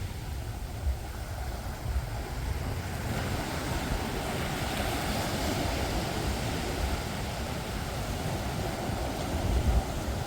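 Ocean surf washing against the shore, swelling in the middle, with wind rumbling on the microphone.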